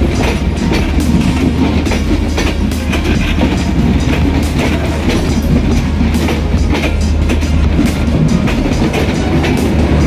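Passenger train running, its wheels clacking irregularly over the rail joints above a steady low rumble.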